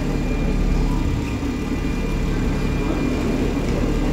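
BMW 2 Series coupé's turbocharged engine idling steadily with the bonnet open.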